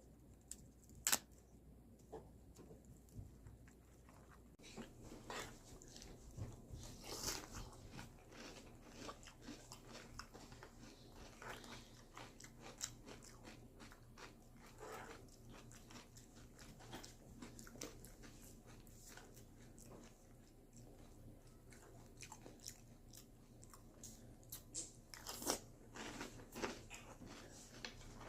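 Crunching and chewing of cereal: a long run of crunchy bites and chews, with a sharp click about a second in.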